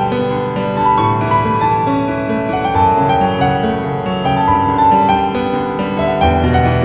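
Solo piano improvisation: a flowing melody over sustained bass chords, played continuously.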